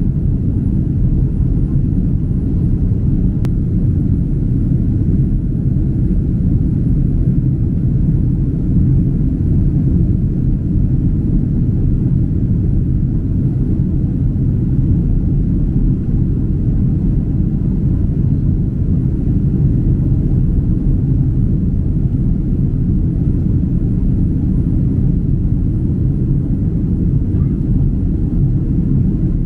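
Steady low rumbling drone inside the cabin of a Boeing 767-300 airliner in flight, from its jet engines and the airflow around the fuselage, holding an even level throughout.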